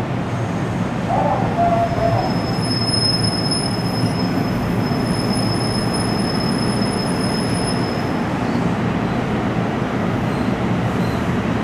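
NJ Transit bi-level passenger coaches rolling slowly past on the rails as the train pulls into the station, a steady rumble of wheels on track. A high, thin, steady squeal sets in about two and a half seconds in and fades out about eight seconds in.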